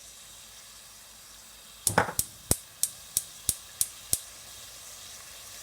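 A cooking utensil knocking against the pot about nine times in quick succession, sharp metallic clicks roughly three a second, the first ringing briefly, over the faint steady hiss of chicken frying in oil.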